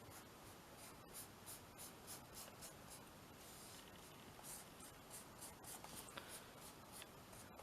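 Faint soft swishes of a paintbrush stroking matte medium over a thin paper napkin on a canvas, in a run of short repeated strokes, a few a second.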